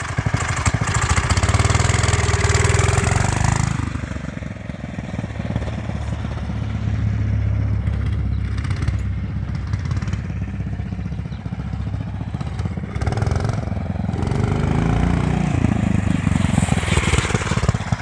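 Predator 420 single-cylinder four-stroke engine on a recumbent motorcycle being ridden, its pitch rising and falling as it accelerates and eases off, louder early and again near the end. The riders put its poor pulling down to running short of fuel on too small a carburettor jet after an aftermarket air filter and exhaust were fitted.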